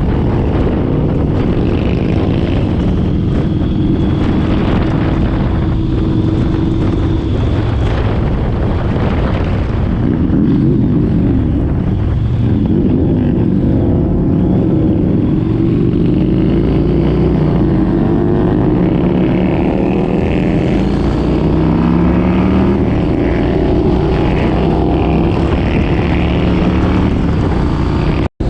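Motorcycle engine running while riding, its pitch rising and falling again and again with changes in speed.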